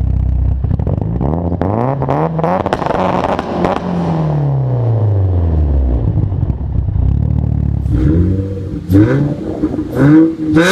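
Fully built, turbocharged Mitsubishi Lancer Evolution with anti-lag being revved: the engine climbs in pitch for a few seconds with popping and crackling from the exhaust, then falls back to a low idle. About eight seconds in, an Infiniti G35 coupe's V6 with a straight-piped Flowmaster exhaust takes over with sharp, loud throttle blips.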